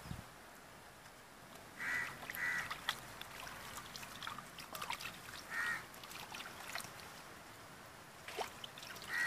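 A bird calling with short harsh calls: two in quick succession about two seconds in, another past five seconds and one near the end. Under them are faint clicks and splashes of hands working chicken feet in a metal bowl of water.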